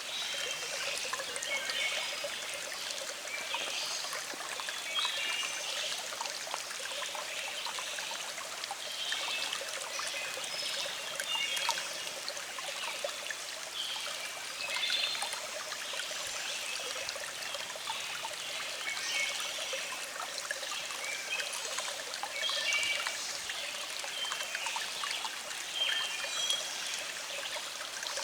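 Small stream flowing steadily.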